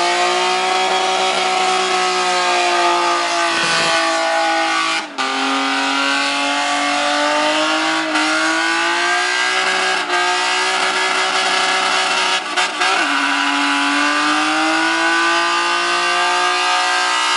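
Nissan Laurel's engine held at high revs in a burnout, the tyres spinning. The note holds steady but dips briefly about four seconds in, again a second later, and twice near thirteen seconds, then slowly climbs.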